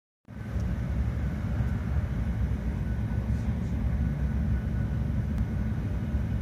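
Shinkansen bullet train running at speed, heard inside the passenger cabin: a steady low rumble with a faint high whine over it.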